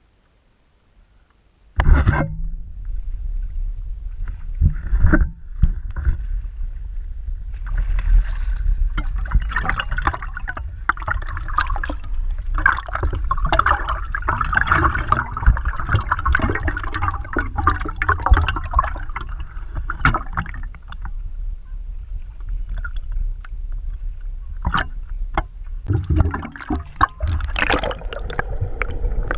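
Water splashing and gurgling over a steady low rumble, starting suddenly about two seconds in.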